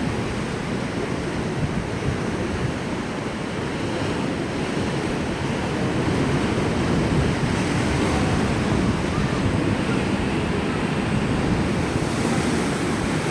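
Sea waves washing onto the shore: a continuous rushing surf that swells a little louder about halfway through.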